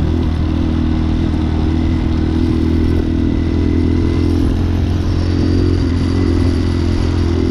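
Hawk 250's 229cc single-cylinder engine running steadily as the bike rides along, heard from on board, its note shifting a little with the throttle.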